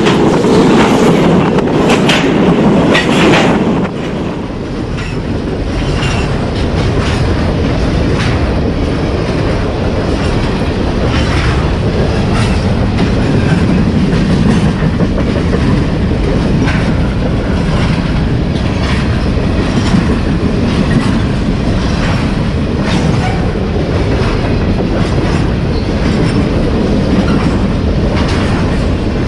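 Freight train passing close: a diesel-electric locomotive goes by loudly for the first few seconds, then a long string of covered hopper cars rolls past, wheels clacking steadily over the rail joints.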